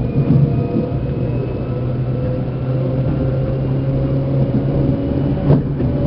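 Seibu New 2000 series electric train running, heard from inside motor car MoHa 2291: a steady motor hum with a faint whine that rises slightly in pitch, over rolling noise. A sharp knock comes about five and a half seconds in.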